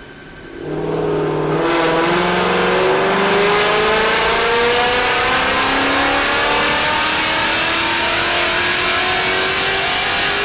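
2018-or-newer Ford Mustang GT's 5.0 L Coyote V8 at wide-open throttle on a chassis dyno. It comes in about a second in, then its pitch climbs slowly and steadily through one long pull.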